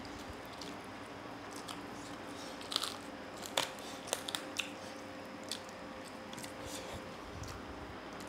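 Close-miked eating sounds: two people chewing and crunching food eaten by hand, with a handful of sharp mouth clicks and smacks, most of them between about three and five seconds in, over a faint steady hum.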